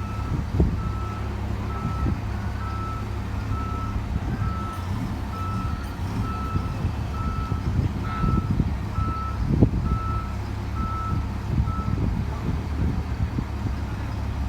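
Motor grader backing up onto a truck, its reverse alarm beeping about twice a second over the steady rumble of its diesel engine. The beeping stops near the end, and there is a single thud about two-thirds of the way through.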